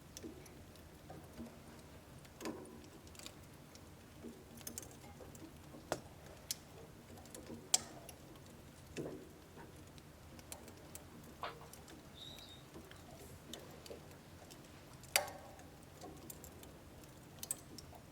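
Wood fire crackling in a home wood-burning stove: irregular sharp pops and snaps over a faint steady low hum. The loudest pops come about eight and fifteen seconds in.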